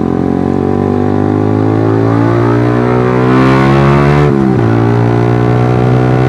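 Suzuki GSX-R150's single-cylinder engine through a Proliner racing exhaust, pulling under acceleration with the pitch climbing steadily. About four seconds in the revs drop sharply at a gear change, then climb again.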